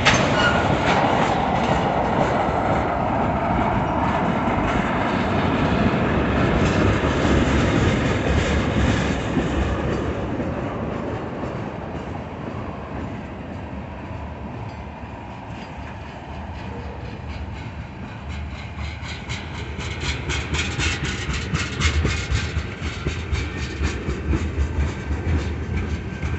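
Tank cars of a slow-moving Union Pacific freight train rolling past, the wheels rumbling on the rails. The rumble eases off midway, then a quick run of sharp clacks over the rail joints comes in over the last several seconds.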